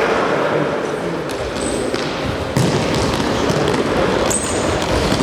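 Football being kicked and bouncing during an indoor match in a large hall, with short high shoe squeaks and players' shouts.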